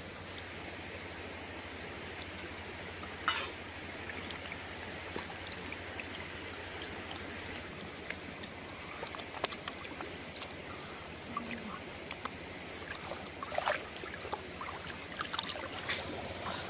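A stream running steadily, with scattered small clicks and taps over it: one sharper one about three seconds in, then many more through the second half.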